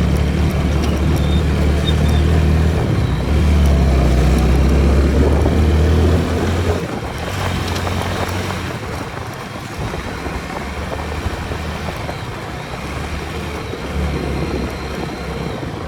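Apache motorcycle's engine running while riding, with a steady low drone that is louder for about the first six seconds and then eases off.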